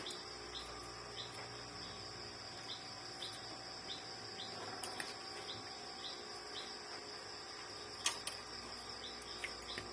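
Crickets chirping: a steady high trill with a short repeated chirp about twice a second. Two faint clicks, about halfway and near the end.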